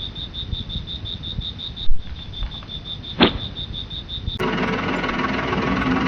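Rapid, steady cricket-like chirping, a high trill pulsing several times a second, with a sharp click about three seconds in. About four seconds in it gives way to denser background music.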